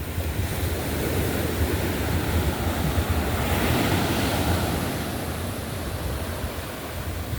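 Ocean surf washing on the shore in a steady rush, with wind buffeting the microphone as a low rumble.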